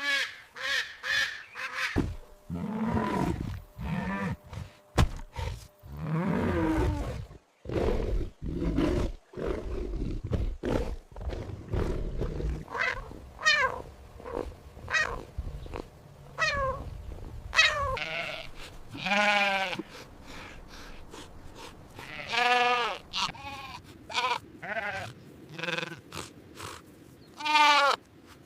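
Farm animals bleating: many separate calls, some low and some high with a quavering pitch, overlapping in places.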